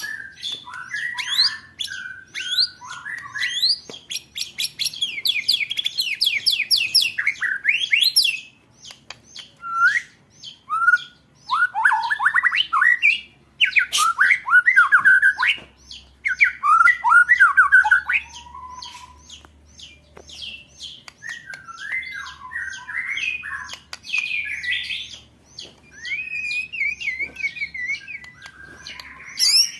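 Songbird calls from a competition-bird training recording: fast rolling trills of rapid repeated notes ('roll tembakan') mixed with harsh chattering. The calls come in dense runs with brief pauses, and the densest trilling falls in the first third.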